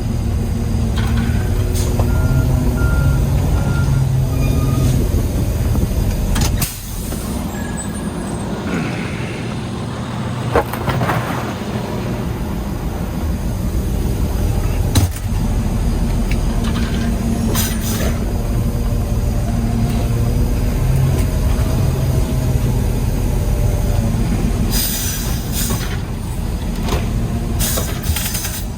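Peterbilt 320 garbage truck with a McNeilus Autoreach side-loader running, its engine hum stepping up and down in pitch, with a few sharp clicks and knocks and short hisses of air near the end, typical of the air brakes.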